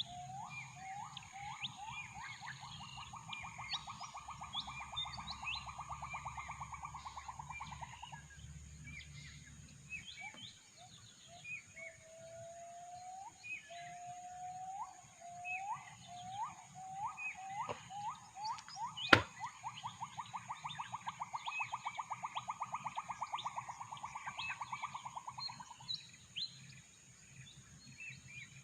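Gibbon (uwa-uwa) great call, twice: a run of rising whoops that speed up into a fast trill lasting several seconds, with small birds chirping around it. A single sharp click about two-thirds of the way through is the loudest sound.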